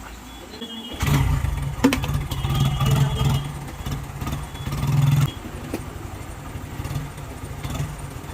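Hero Super Splendor's single-cylinder four-stroke engine starting up about a second in after its rebuild, revved unevenly for a few seconds, then dropping back to a steady idle just past halfway.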